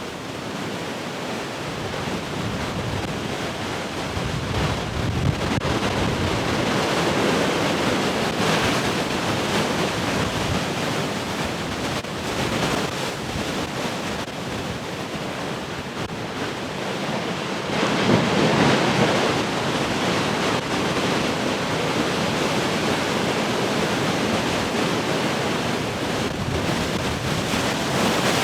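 Large ocean waves breaking and surging as a steady roar of surf, swelling louder as bigger waves break, most strongly a little past the middle. Wind gusting on the microphone.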